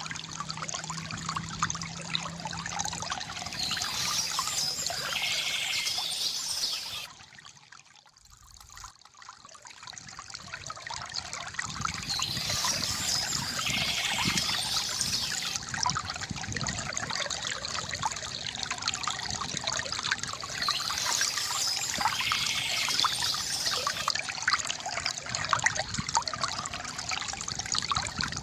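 Water trickling and pouring from a bamboo fountain, a steady gurgling flow. About seven seconds in it falls away almost to silence, then swells back over the next few seconds.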